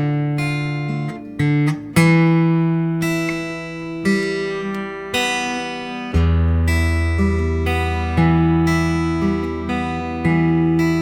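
Acoustic guitar played alone, chords strummed and left to ring, a new chord or bass note struck every second or two, with a deeper bass note entering about six seconds in.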